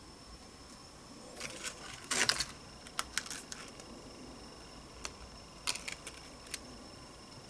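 Scattered light clicks and short rustles of objects being handled, the loudest a brief rustle about two seconds in, over a faint steady high whine.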